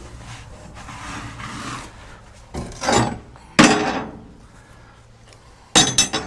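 Several knocks and scrapes of things being handled, the sharpest about halfway through and a quick cluster near the end, over a faint low steady hum.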